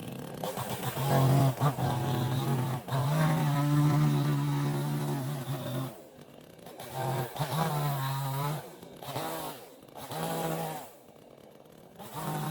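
Chainsaw engine running in several bursts of one to three seconds, dropping back between them and picking up again near the end.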